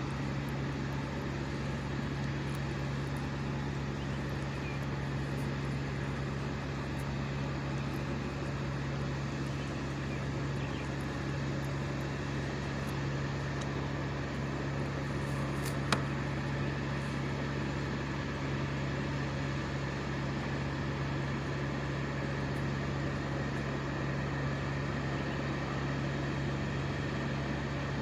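Engine running steadily on high, a constant unchanging hum, with one sharp click about sixteen seconds in.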